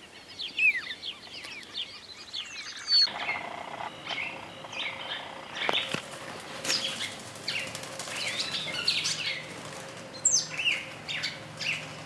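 Several wild birds chirping and calling in a natural outdoor soundscape: many short chirps and rising and falling whistled calls, overlapping and coming in irregular clusters.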